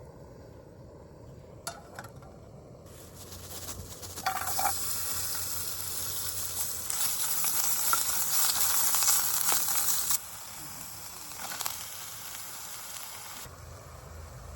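Food sizzling in a pan on a camp stove, a bright hiss that builds, peaks, then drops off sharply about ten seconds in and fades soon after. A light clink of cookware about four seconds in.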